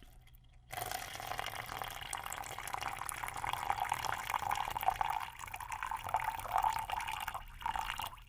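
Water poured steadily into a cup right beside a binaural dummy-head microphone, starting just under a second in and running for about seven seconds, the pitch of the filling rising slightly as the cup fills.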